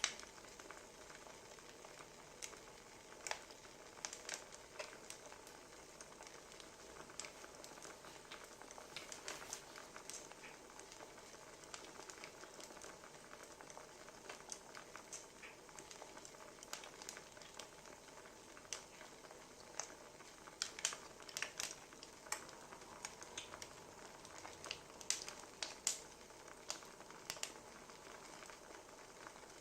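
Wood fire crackling faintly, with irregular sharp pops over a soft steady hiss; the pops come in clusters, busiest in the second half.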